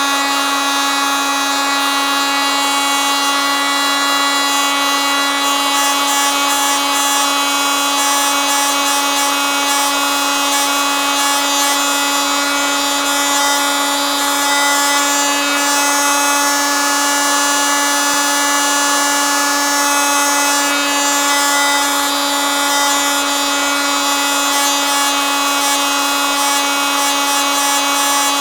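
Oscillating multitool running continuously at constant speed, a steady high-pitched whine with a buzzing, rasping edge.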